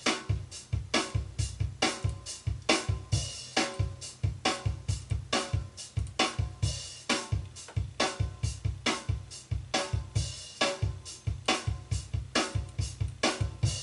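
Acoustic drum kit playing a steady, busy beat: kick drum, snare and cymbals, in a lively-sounding drum room.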